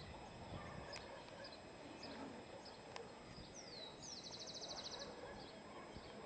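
A bird calls faintly over steady low background noise: a high falling whistle about four seconds in, then a fast high trill lasting about a second.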